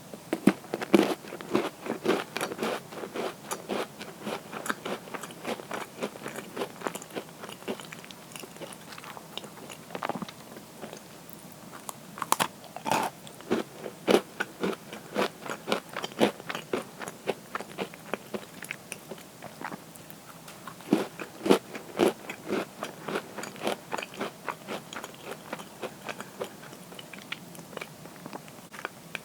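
Close-up crunching and chewing of crisp cookies, bites breaking into runs of sharp crackles that come in bursts with quieter chewing between.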